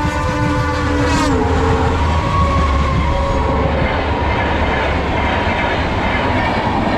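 Twin WAP-4 electric locomotives running light past at speed. Their horn is sounding and drops in pitch about a second in as they pass, followed by a steady rumble and clatter of wheels on the track.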